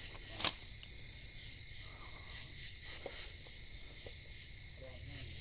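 Crickets chirring in a steady night chorus, with one sharp click or snap about half a second in.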